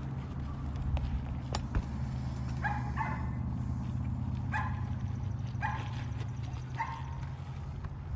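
A dog barking about five times, short barks roughly a second apart, over a steady low hum, with a few sharp knocks in the first two seconds.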